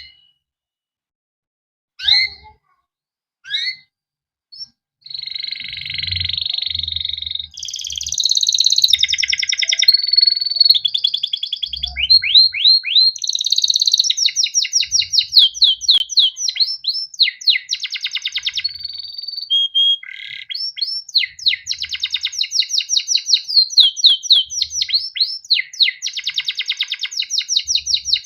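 Male domestic canary singing: a few single rising chirps a second or two apart, then from about five seconds in a continuous song of rapid trills and rolling phrases.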